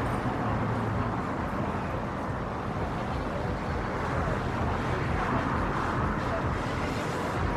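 City street ambience: a steady wash of traffic noise with a low engine hum underneath.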